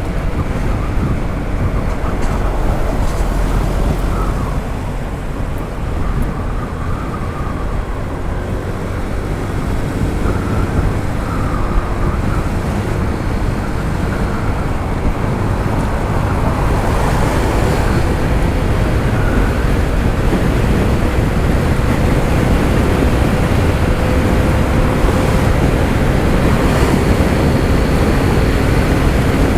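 Wind rushing over the microphone while riding a Honda ADV 160 scooter, with its single-cylinder engine running underneath; the engine tone climbs slightly in pitch in the second half.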